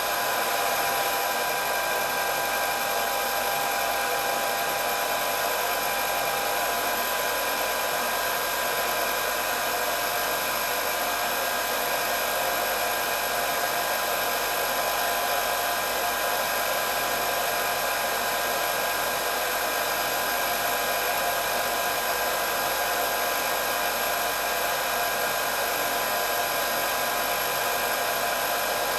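Hair dryer running steadily: an even rush of blown air with a steady high-pitched whine from its motor.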